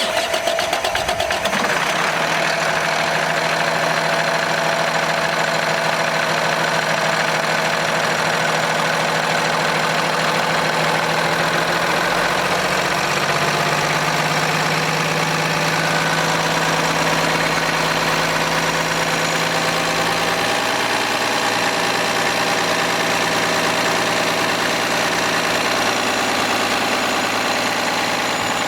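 Cummins ISC-300 diesel engine of a Freightliner M2 truck just after starting, settling within the first couple of seconds into a steady idle.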